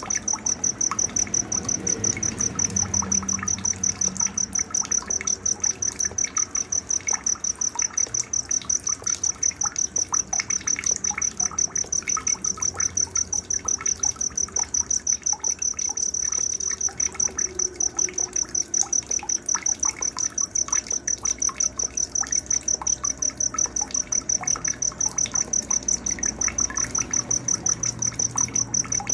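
Night ambience of a cricket chirping in a steady, rapid pulse of one high tone, with scattered short bird chirps over it.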